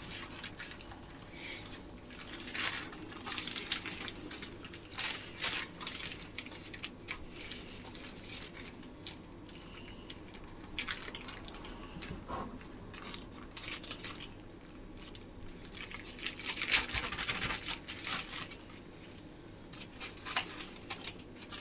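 Baking paper rustling and crinkling in irregular bursts as pizza dough is handled and rolled up on it.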